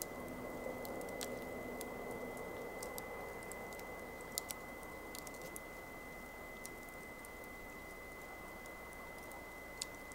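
Wood campfire burning: a soft steady hiss with scattered sharp crackles and pops, the loudest pops about four seconds in and near the end.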